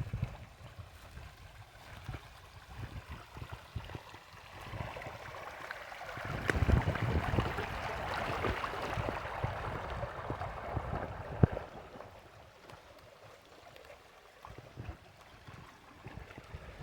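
Water running through a small stream inlet as a steady rush, louder for several seconds in the middle. Wind gusts buffet the microphone throughout.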